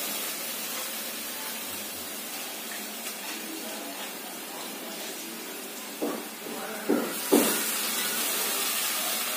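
Grated radish frying in hot oil in a kadhai, a steady sizzle, with a few short handling noises about six seconds in. The sizzle grows louder about seven seconds in as more squeezed-out radish goes into the pan.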